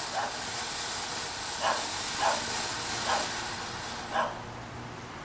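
Steady hiss of a burning firework that thins out about four seconds in, with a dog barking about five times over it.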